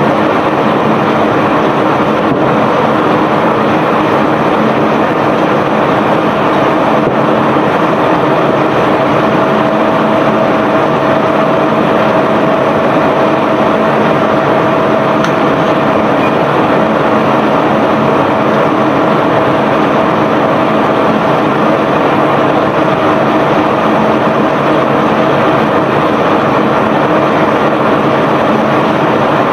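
Self-unloading barge's unloading machinery running steadily with bulk cargo moving through it: a loud, unbroken mechanical noise with a steady hum, a higher tone joining about six seconds in.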